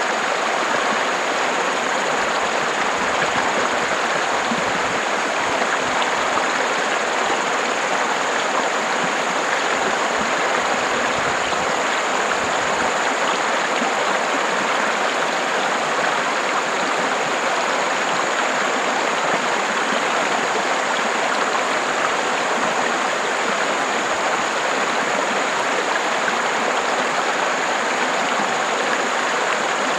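Steady rush of a flowing river, an even, unbroken sound of running water.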